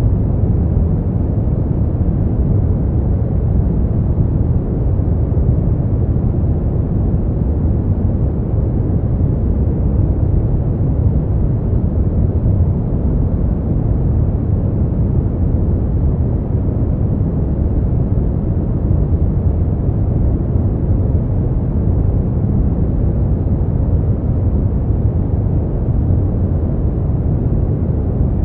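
Brown noise: a steady, even deep hiss, strongest in the bass and fading away toward the treble, with no changes.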